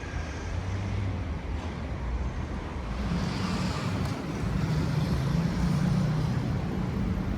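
Motor vehicle traffic with a steady low rumble. About three seconds in, a vehicle's engine hum comes in and grows louder.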